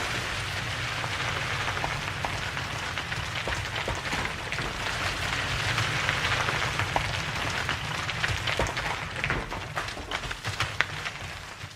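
Rock fall in a mine: a continuous rush of rubble with a low rumble and many small sharp knocks of stones striking, dying away near the end.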